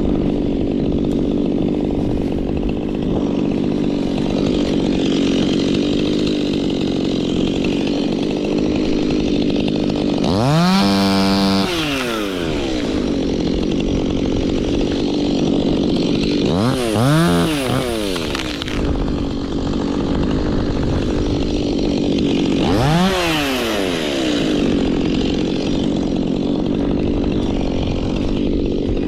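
Two-stroke chainsaw running steadily at high revs while cutting wood, with three swells where the engine pitch rises and falls again, about six seconds apart.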